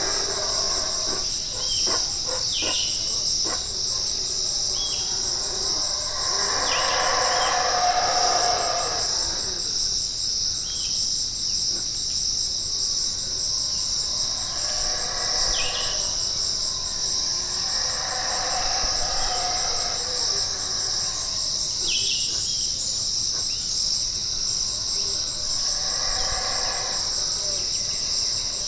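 Tropical rainforest insect chorus: a steady high-pitched buzz. A lower call swells up for a couple of seconds every several seconds, with brief falling chirps over it and a few clicks near the start.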